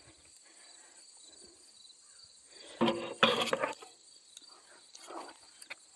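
Steady, faint, high-pitched insect chirring from crickets in the background. About three seconds in there is a short burst of handling noise.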